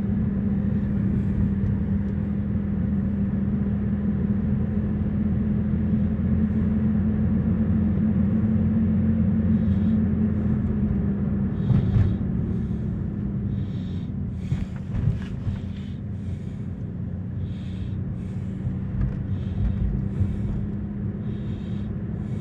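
Car driving: a steady low engine and road hum. A few short high clicks come in from about ten seconds on.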